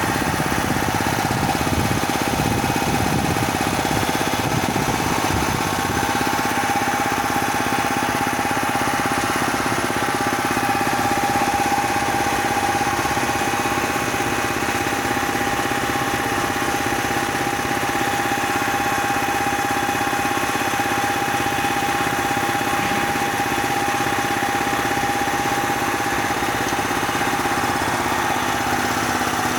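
Bauer 330-bar high-pressure compressor running steadily, with a steady whine that grows stronger about six seconds in.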